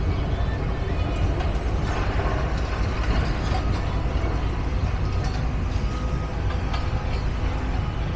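Steady low rumble of outdoor background noise, with no clear single event standing out.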